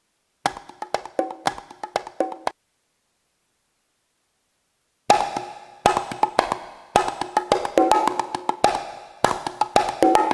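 Native Instruments Maschine+ playing a short pattern of sharp, pitched, wood-block-like percussion hits. The pattern plays for about two seconds, cuts off to silence, then starts again about five seconds in and runs on.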